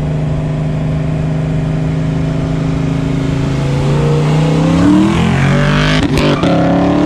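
Fox Body Mustang GT's V8 engine running at a steady drone as the car cruises, then accelerating from about five seconds in, its pitch rising. There is a brief break near the end, after which the engine note climbs again.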